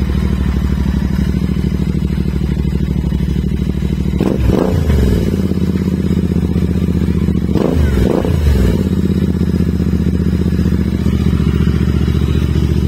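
Royal Enfield Interceptor 650 parallel-twin idling through an aftermarket carbon-fibre silencer, with a short blip of the throttle about four seconds in and a second blip around eight seconds, the pitch rising and falling each time.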